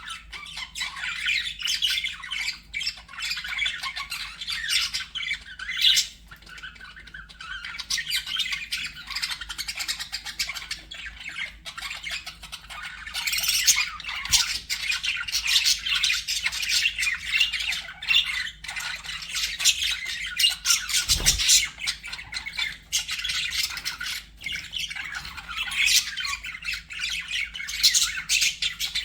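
Budgerigars chattering, warbling and squawking nonstop, a dense stream of short chirps and calls. A single low thump about two-thirds of the way through.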